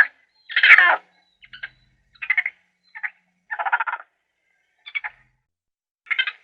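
An animal calling: a series of about eight short, rough calls at uneven intervals, each lasting under half a second.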